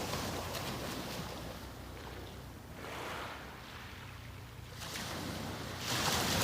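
Small sea waves breaking and washing up the beach, swelling and falling back every couple of seconds, with a louder wave near the end.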